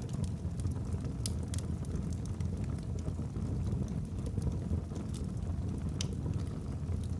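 Wood logs burning in a fireplace: a steady low rumble of flames with scattered sharp crackles and pops, a few of them louder than the rest.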